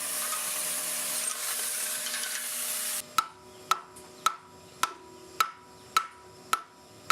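A steady hiss from a power tool working on a bronze casting stops suddenly about three seconds in. Then a hammer strikes metal about seven times, roughly every half second, each blow ringing briefly: fettling a freshly cast bronze sculpture section, knocking out investment material.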